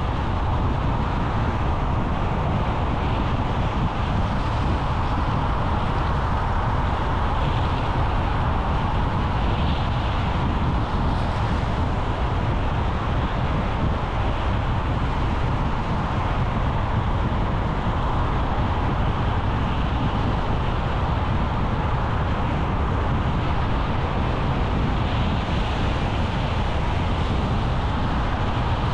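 A car driving along the road: a steady mix of engine and road noise, heaviest at the low end, with no sudden events.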